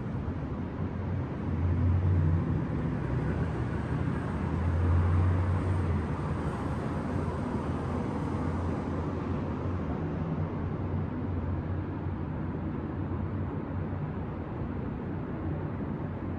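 City street traffic: a steady low rumble of vehicles with tyre hiss, swelling louder twice, about two and five seconds in, as vehicles pass, then easing back.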